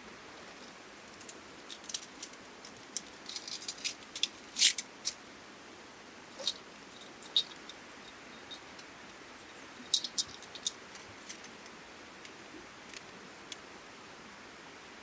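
Irregular light metallic clicks and clinks, some with a brief high ring, coming in clusters, like small metal parts being handled.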